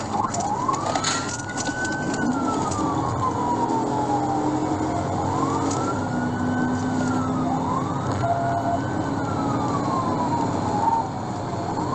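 Police car siren in wail mode, rising and falling slowly about every three to five seconds, over the engine and road noise of a patrol car in a high-speed pursuit. A few sharp clicks come in the first few seconds.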